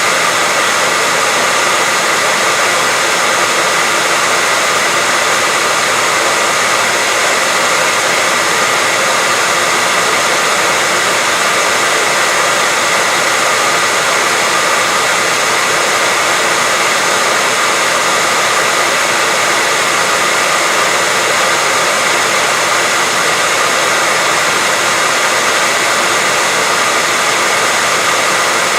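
Steady, unchanging rushing hiss of a white-noise track, with no breaks or changes in level.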